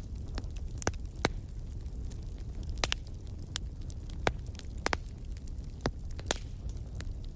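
Fire burning in a fireplace and crackling: a dozen or so sharp pops and snaps at irregular intervals over a steady low rumble.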